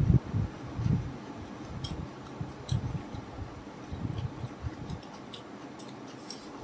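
Close-up eating sounds: chewing with soft irregular low thumps and scattered wet mouth clicks and smacks.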